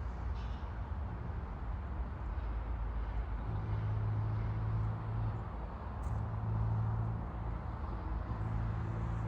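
Road traffic: a steady low rumble, with a low engine hum that sets in about three and a half seconds in and drops away briefly twice.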